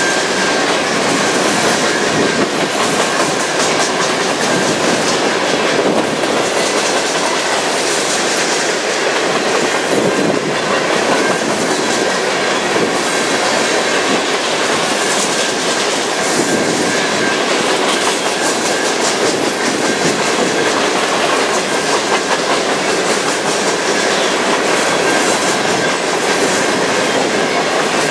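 Freight train cars, mostly empty centerbeam flatcars, rolling past at steady speed, steel wheels clattering over the rail joints in an even, continuous rumble.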